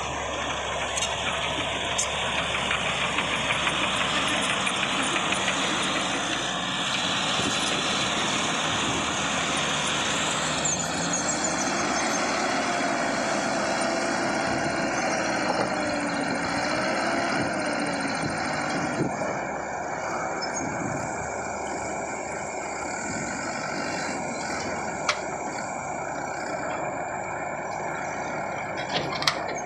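A heavy truck's engine running steadily amid road and vehicle noise, with a faint wavering tone for a few seconds in the middle and a few sharp clicks near the end.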